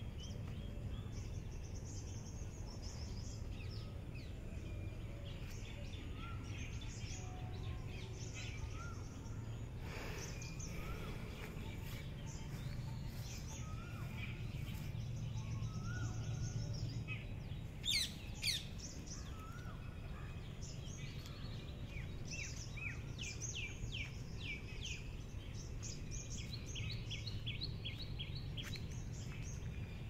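Small birds chirping and trilling in the trees, many short calls overlapping, with a few short whistled notes and two louder sharp calls a little past halfway. A steady low rumble runs underneath.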